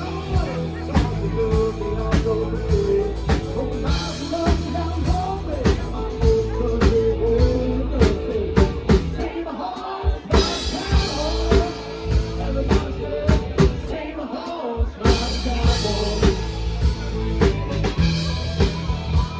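Live country-rock band playing loudly: drum kit, bass and guitars, with the bass and kick dropping out twice for about a second each.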